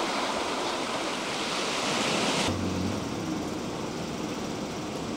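KiHa 185 series diesel railcar running, heard from inside the train: a loud, even rushing noise that cuts off abruptly about halfway through, leaving quieter running noise with a low engine hum.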